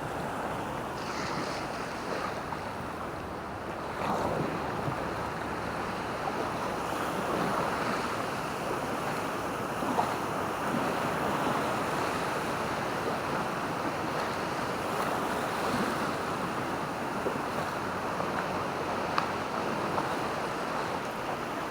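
Steady surf of sea waves washing onto a beach, with wind buffeting the microphone and a couple of brief clicks.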